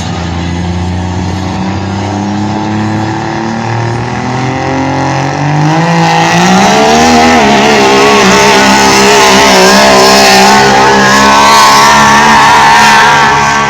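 Pulling vehicle's engine at full throttle under load: its pitch climbs over a few seconds about halfway through, then it runs loud at high revs with a wavering pitch.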